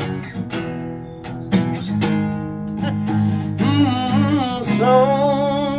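Song played on a strummed acoustic guitar, with a voice holding long wavering notes over it in the second half.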